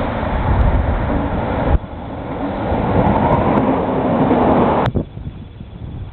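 SNCB train running on the track, a loud rumbling rail noise that breaks off abruptly about two seconds in, builds again, then cuts off suddenly near the end.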